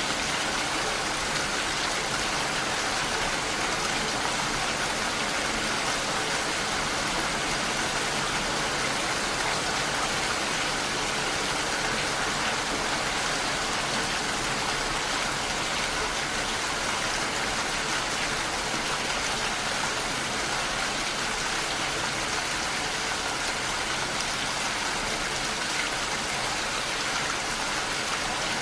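Steady heavy rainfall, an even hiss of drops with fine pattering throughout.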